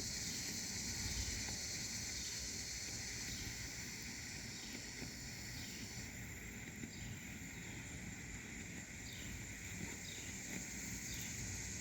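Insects, crickets or similar, trilling steadily in several high pitches. Short chirps repeat about every half second to second, and the highest trill drops away about halfway through.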